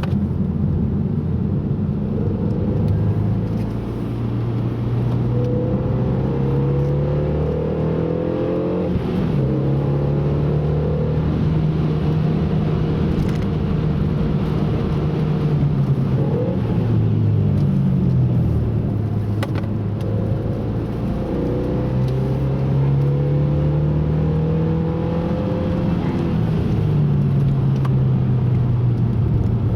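A car's engine is driven hard around a track. The revs climb, then drop sharply at the gear changes and when braking, several times over. Steady road and tyre noise runs underneath.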